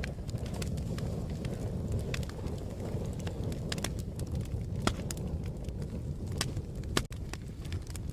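Wood fire crackling: a steady low rumble of burning with irregular sharp pops and snaps scattered throughout.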